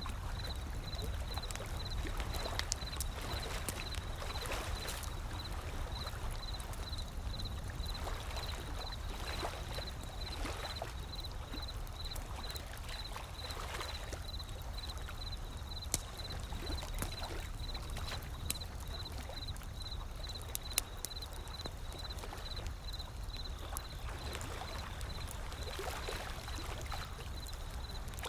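Wood fire crackling with scattered sharp pops over gentle ocean waves washing in and out and a low steady rumble. A faint high chirp pulses about two or three times a second throughout.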